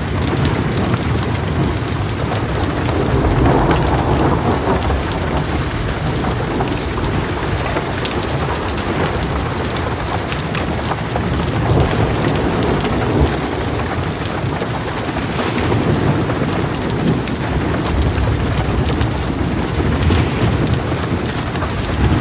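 Heavy rain pattering steadily on a metal roof, with low thunder rumbling and swelling several times.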